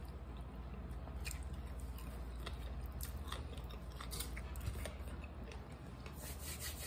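Close-up mouth sounds of eating a chicken sandwich: chewing and biting with scattered small wet clicks, faint, over a low steady hum. The clicks come thicker near the end.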